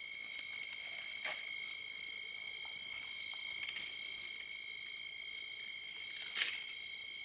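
Steady high-pitched night chorus of calling frogs, with two brief clicks about a second in and near the end.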